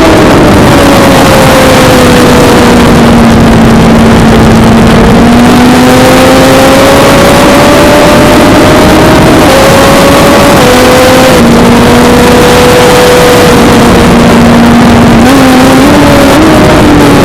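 Suzuki GSX-R600 inline-four engine running on track, its note sagging and then climbing slowly with the throttle, with a brief step down about ten seconds in and a rise near the end, under heavy wind noise on the onboard microphone.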